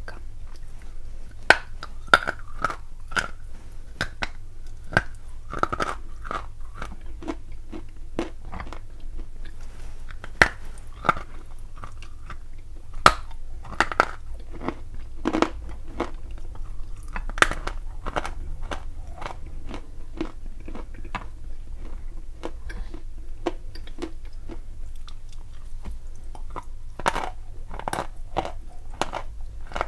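Close-miked biting and chewing of dry chunks of chalk and clay: a steady run of gritty crunches, with several sharp, louder snaps as pieces are bitten off.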